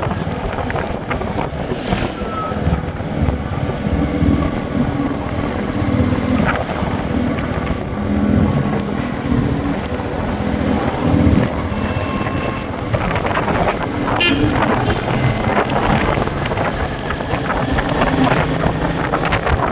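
Royal Enfield Meteor 350's single-cylinder engine running on the move, with wind buffeting the microphone.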